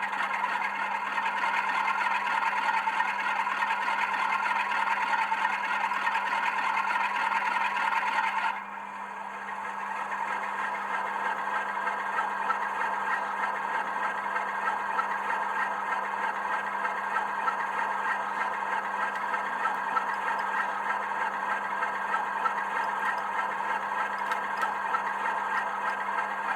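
Model Class 47 locomotive's sound decoder playing a diesel engine working under load through its small onboard speaker. About eight seconds in, the sound drops suddenly to quieter, steady running.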